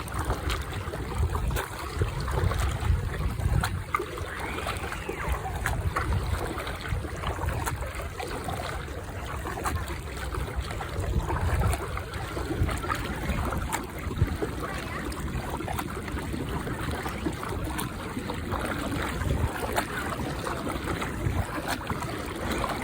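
Kayak paddling on a lake: water trickling and splashing off the paddle and lapping at the hull, with small drips and clicks throughout. Wind rumbles on the microphone now and then, most in the first few seconds.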